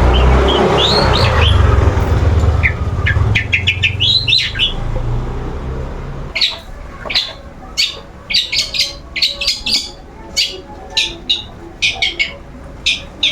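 Long-tailed shrike (cendet) calling non-stop. Scattered chirps sit over a low rumble at first, then from about six seconds in come short, sharp, loud calls, one or two a second.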